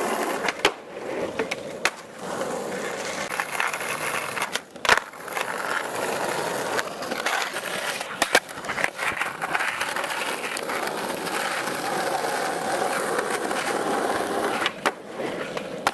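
Skateboard wheels rolling over rough ground with a steady grinding rumble. Several sharp clacks of the board are spread through it, the loudest about five seconds in and another about eight seconds in.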